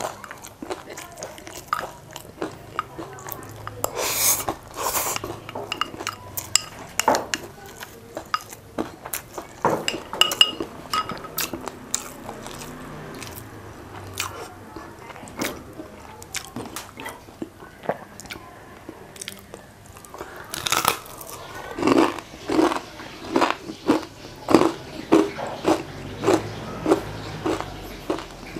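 Close-miked crunching and chewing of crispy batter-fried chicken, with sharp crackling bites, settling in the last third into steady chewing at about two chews a second.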